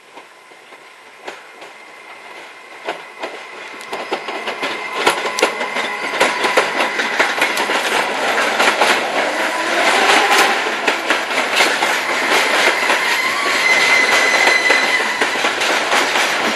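Freight train drawing near and passing, its wheels clattering over rail joints and getting steadily louder, with a thin high wheel squeal in the second half.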